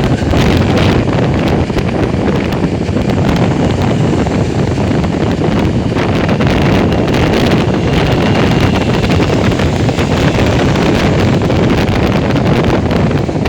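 Steady, loud wind rush buffeting the microphone on a moving motorcycle, heaviest in the low end.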